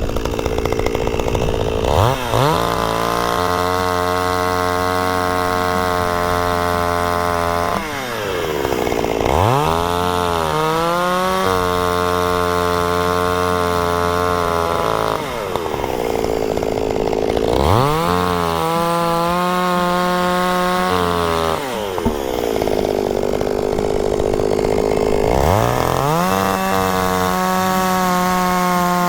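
Chainsaw revving up from idle and held at high speed while cutting through firewood logs, then dropping back to idle, four times in a row, each cut lasting several seconds.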